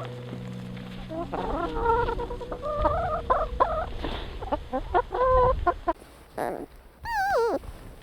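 Chickens clucking in short, choppy calls. After a sudden change about six seconds in, a different animal gives a wavering call that falls in pitch, near the end.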